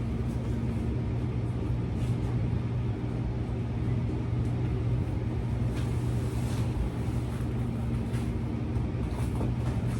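Steady low machine hum with an even pitch, with a few faint knocks and rustles over it.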